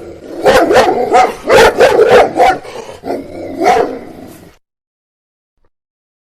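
A dog barking repeatedly, a quick run of sharp barks that stops abruptly about two-thirds of the way through.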